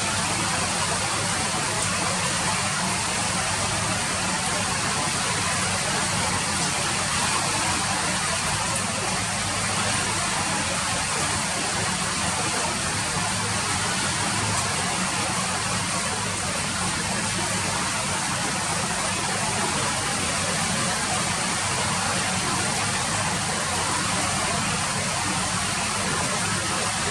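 Steady rain falling: an even hiss that holds at the same level throughout.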